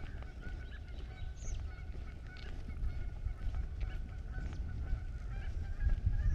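Birds calling, a run of short repeated calls throughout, over a steady low rumble.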